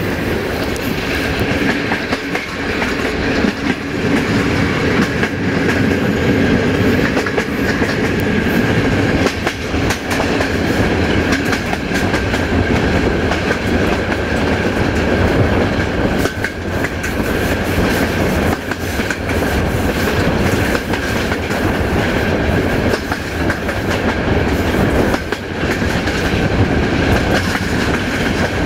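Passenger train running at speed, heard on board: a steady rumble with the wheels clattering over rail joints and a faint steady high whine.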